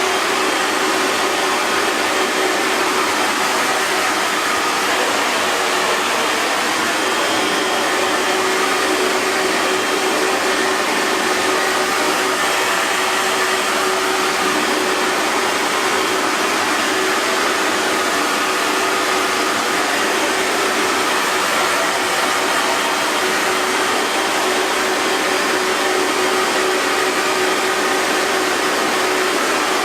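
Electric hair dryer running at a constant setting: a steady rush of air with a motor hum at one fixed pitch.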